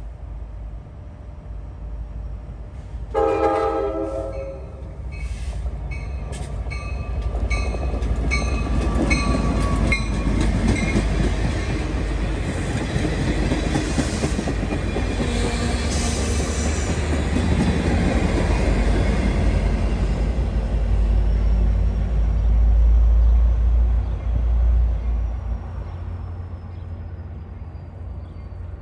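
Passenger train's diesel locomotive sounding its multi-chime air horn in a series of blasts, starting about three seconds in with a long one. The train then passes close by with a heavy engine rumble and the clatter of wheels on the rail.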